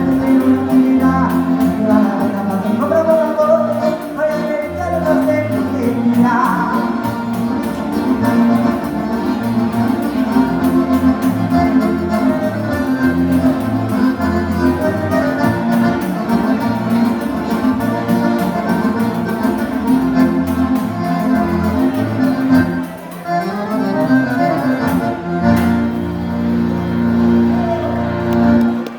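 Live gaúcho dance music: a button accordion playing sustained chords, with singing and a repeating bass line underneath.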